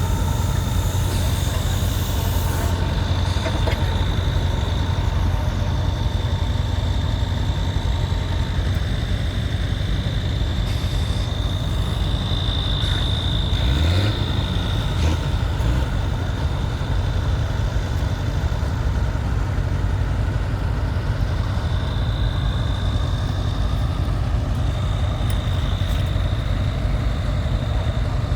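Large tractor engine running steadily, with a thin high whine above it; the engine's pitch briefly shifts about halfway through.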